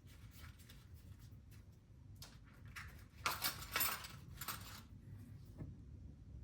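Small metal hand tools clinking and rattling, with a louder burst of jangling about three seconds in, like hex keys being handled and sorted.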